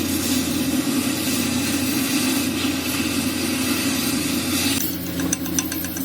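A machine or engine running steadily with a hiss over it. About five seconds in, the hiss drops away and a rapid ticking comes through.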